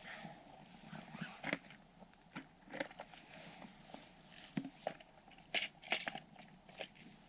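Faint, irregular crunching footsteps in snow.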